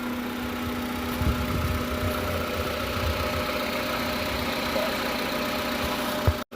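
2003 Honda Civic's four-cylinder engine idling steadily, left running with the heater on to purge trapped air from the cooling system. The sound drops out for a split second near the end.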